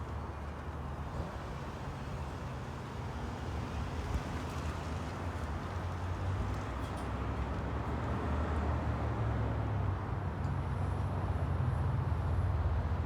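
Low, steady vehicle rumble, slowly growing louder.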